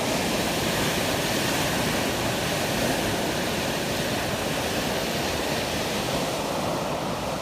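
Steady rushing noise of wind and sea water at sea, an even roar with no distinct events.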